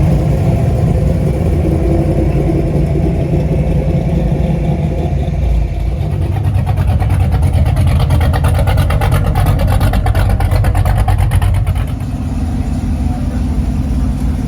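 Car engine running with a low rumble; from about the middle a fast pulsing exhaust note comes up for several seconds, then drops back near the end.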